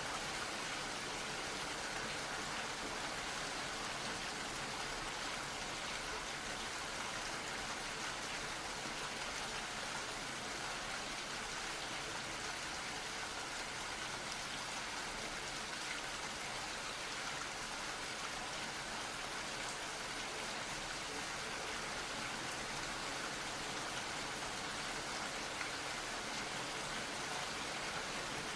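Steady rain falling, an even hiss of raindrops that stays the same throughout.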